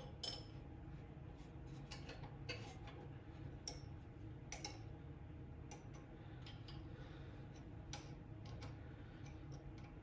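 Faint, scattered metallic clicks and taps of hand tools and small engine parts being handled, a few light ticks a second apart over a low steady hum.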